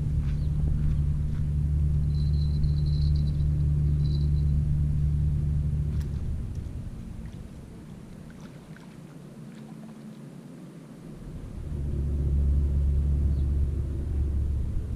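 Wind buffeting the microphone: a low rumble that eases off about halfway through and picks up again a few seconds later.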